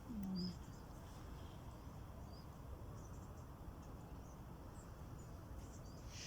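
Quiet marsh background: a low steady hiss and rumble with a few faint, short, high chirps spread through it. A brief low murmur of a man's voice falls away in the first half second.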